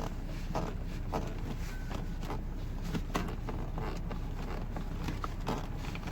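Steady low road and engine rumble inside the cabin of a Skoda Kodiaq on the move, with faint irregular clicks over it.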